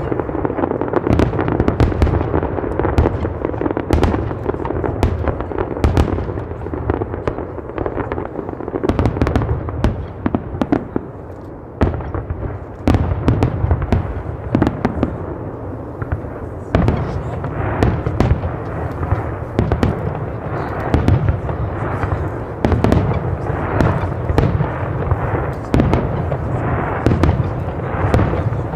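Fireworks going off in rapid, dense succession: many sharp bangs and crackles overlapping into a continuous barrage, easing briefly about halfway through and then building again.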